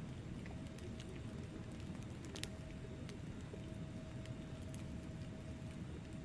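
Wood fire burning in a fireplace: a steady low rumble of flames with scattered crackles and pops from the logs, one sharper pop about two and a half seconds in.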